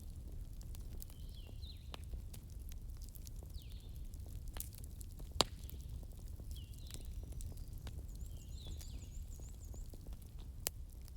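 Fire crackling, with scattered sharp pops over a low rumble; the loudest pop comes about five seconds in and another near the end. Short falling chirps repeat in the background every few seconds.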